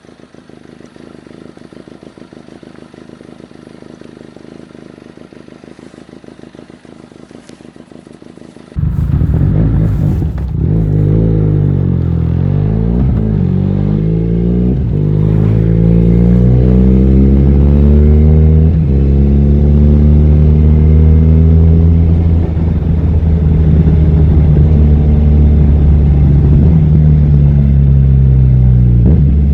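Benelli 502C's 500 cc parallel-twin engine. It first runs quietly and evenly, then about nine seconds in turns suddenly much louder, the engine note climbing and dropping back again and again as the motorcycle accelerates through the gears.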